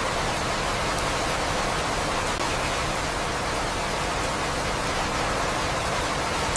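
Steady rain falling, an even unbroken hiss with no thunder claps.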